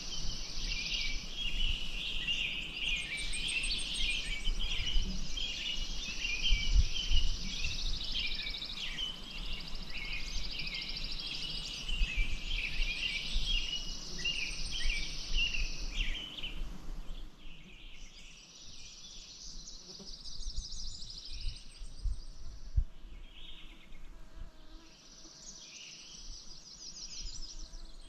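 A chorus of songbirds chirping and calling, with repeated high, buzzing trills above. It is dense for about two-thirds of the time, then thins out to scattered calls before picking up again near the end. A low rumble with occasional thumps runs underneath.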